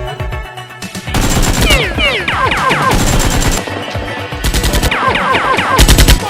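Automatic gunfire sound effect: one long rapid burst, then two short bursts, with falling high pings among the shots, over background music.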